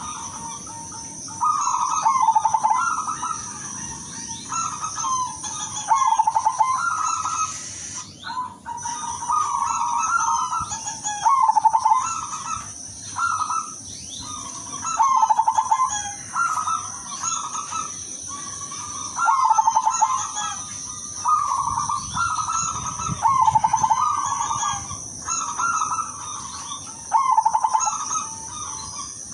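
Zebra dove (perkutut) cooing its trilled call over and over, a phrase every one to two seconds, over a steady high-pitched whine in the background.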